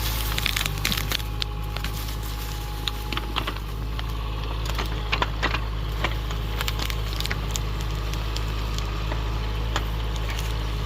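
An engine runs steadily under a string of sharp cracks and snaps of breaking twigs and wood, most of them in the first half and around the middle.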